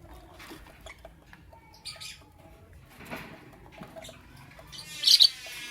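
Lovebirds chirping: scattered short, high calls with faint clicks between them, and a loud sharp call near the end.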